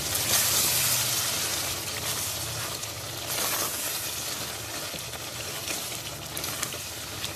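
Mutton with yogurt and ground spices sizzling in hot ghee in a metal pot as it is stirred with a silicone spatula. The sizzle is loudest in the first second or so, then gradually softens to a steady fry.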